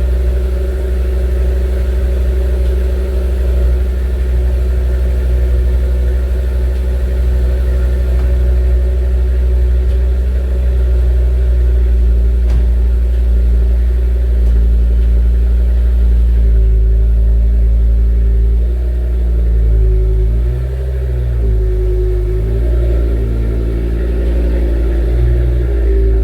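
Car engine running at low revs, steady for most of the stretch, then its pitch stepping up and down over the last several seconds as the revs change.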